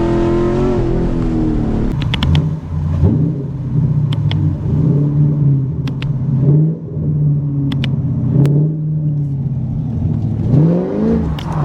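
Cammed C7 Corvette V8 with long-tube headers dropping from high revs, then running at low rpm with a few sharp cracks from the exhaust. Near the end it revs up quickly.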